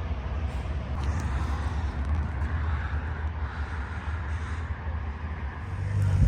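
Ferrari 458 Speciale's V8 idling with a steady low rumble, which grows louder in the last second.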